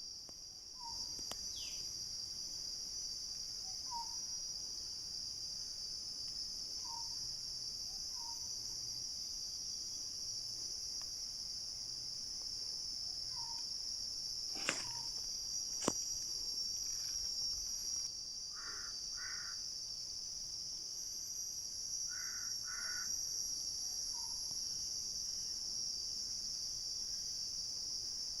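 Steady high-pitched insect chorus of crickets or cicadas, with short bird calls and a few paired calls scattered through. Two sharp clicks come a little past the middle.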